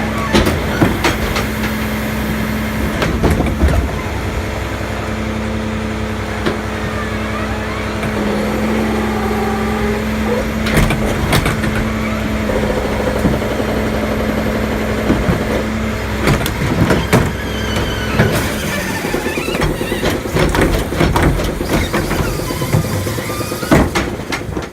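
Diesel engine of a Mack LEU garbage truck running, with repeated sharp clanks and knocks. The steady engine tone fades out about two-thirds of the way through.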